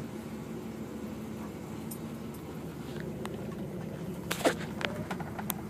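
Chevrolet 396 big-block V8 idling steadily, now running after a replacement battery fixed a no-crank. Several sharp clicks and knocks sound over it in the second half, the loudest about four and a half seconds in.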